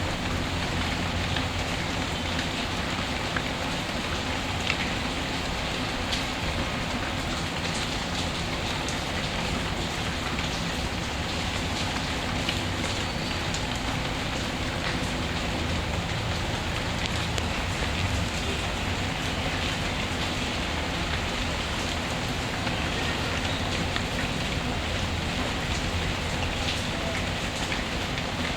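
Steady rain ambience mixed with a fireplace, with a few sharp crackles scattered through the even hiss of the rain.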